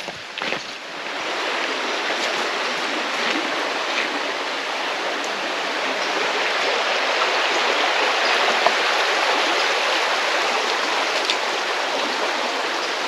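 A river running over rocks: a steady rush of flowing water that swells in about a second in, after a few light knocks.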